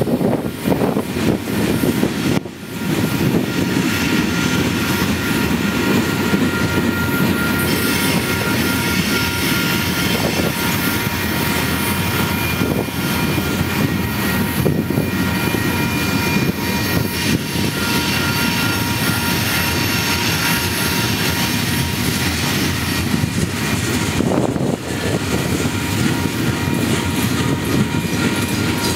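Freight cars of a manifest train rolling past close by: a steady, dense rumble of steel wheels on rail, with a thin, steady high wheel squeal over it. The rumble dips briefly about two and a half seconds in.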